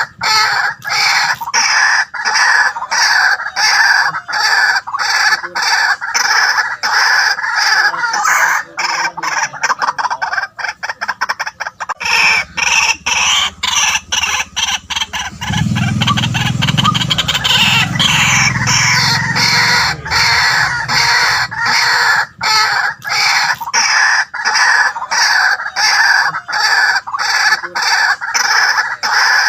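White-breasted waterhen calling without pause, a fast, loud run of repeated harsh notes several times a second. A lower-pitched sound joins for a few seconds midway.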